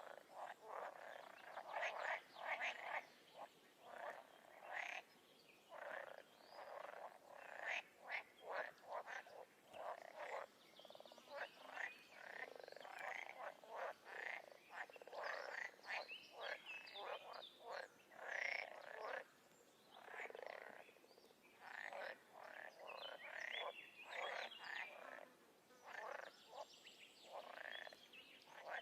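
A chorus of frogs croaking: many short calls overlapping, with brief lulls.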